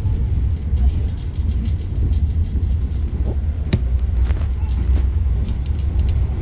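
KA Argo Bromo Anggrek passenger train running along the track: a steady low rumble with a sharp knock about halfway through and a few faint ticks near the end.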